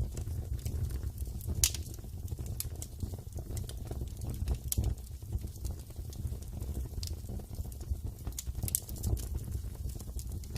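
Wood fire crackling: irregular sharp pops and snaps over a steady low rumble, with one louder pop just under two seconds in.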